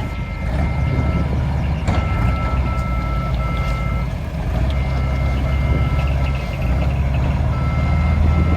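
Dump truck's reversing alarm beeping repeatedly over the steady running of its engine.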